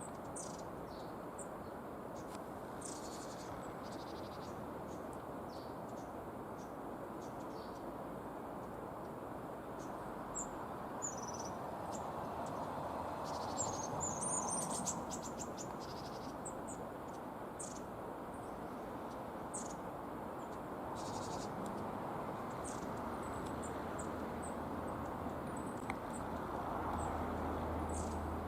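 Small birds calling: many short, high, thin calls scattered through, busiest about halfway, over a steady low background rumble.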